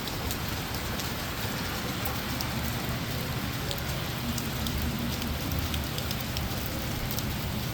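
Heavy rain falling steadily, with individual drops landing close by as sharp ticks scattered through it.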